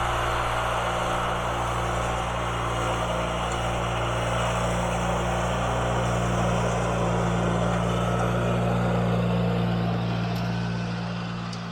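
1980 IH Cub Cadet 582 garden tractor's engine running steadily at constant speed, easing off slightly near the end.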